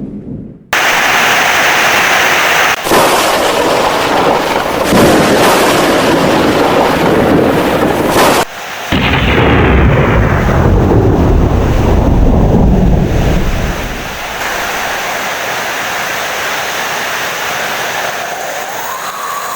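Heavy rain with loud rolling thunder, the low rumble strongest around the middle and fading out about two-thirds of the way through, leaving a steadier, quieter rain hiss. The sound cuts in abruptly just after the start and breaks off briefly twice.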